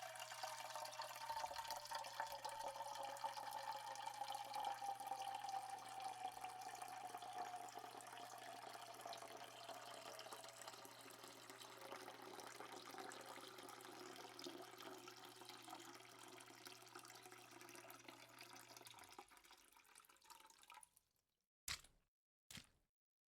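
Water running from a tap into a sink, a steady splashing hiss with a ringing tone that slowly falls in pitch. It fades out near the end, followed by a few short knocks.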